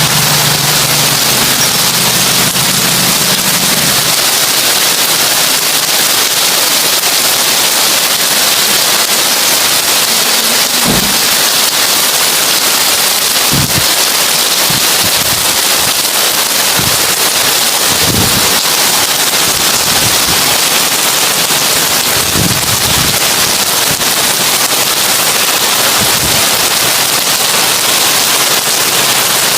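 Heavy rain falling on a tin roof, a dense, steady, crackling patter. A few short low thuds come through it in the middle stretch.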